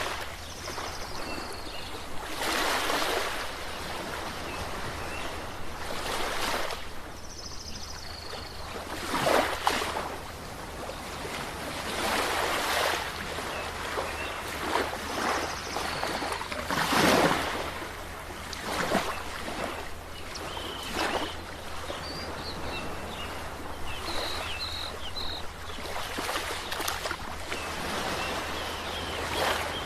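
Sea waves breaking again and again, a surge of surf every few seconds over a steady wash of water, with a low steady rumble underneath.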